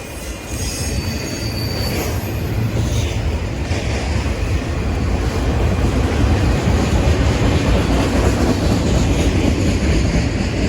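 Freight cars of a BNSF manifest train rolling slowly over tornado-damaged track, a steady rumble of wheels on rail that grows louder, with faint high wheel squeal in the first couple of seconds.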